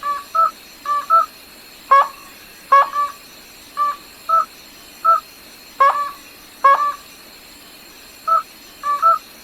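A rail, gà nước họng trắng (white-throated rail), giving short, clipped, nasal call notes over and over, often in quick pairs, about fifteen in all.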